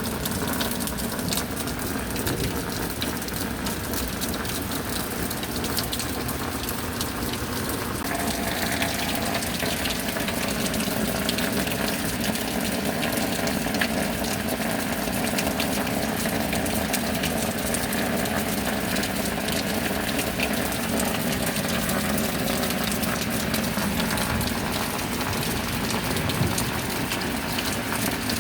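Steady rain: a dense patter of drops over the rush of running water, the tone of the flow shifting a little about eight seconds in.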